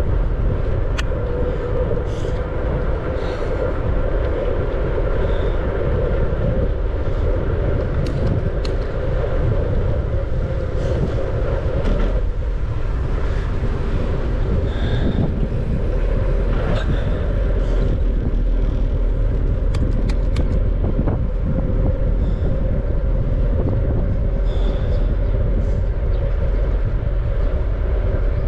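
Steady wind rush over the microphone of a moving bicycle, with steady rolling noise underneath and a few light ticks.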